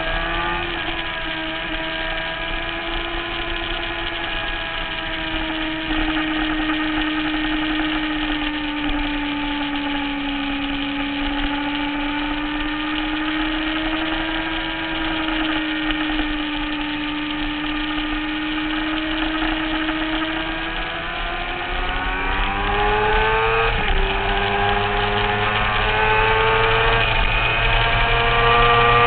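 Motorcycle engine heard onboard, holding a steady pitch through a long corner, then revving up under acceleration, with a sudden drop in pitch at an upshift and the revs climbing again, louder near the end.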